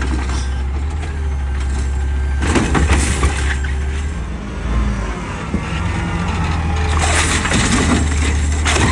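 Peterbilt 520 garbage truck's diesel engine running steadily, with two louder stretches of clattering noise, about two and a half seconds in and again near the end.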